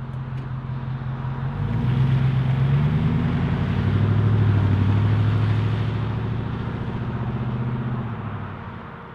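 Ford F-150 SVT Raptor's 6.2L V8 running through an MBRP 3.5-inch single side exit cat-back exhaust. The exhaust note climbs in pitch and loudness about two seconds in, holds, then eases off and fades near the end.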